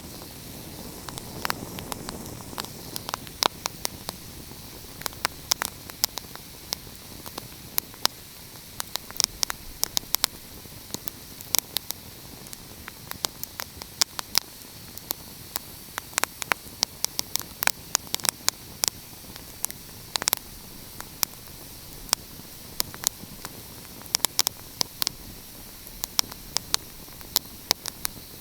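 Wood fire crackling: many irregular sharp pops and snaps over a steady soft hiss.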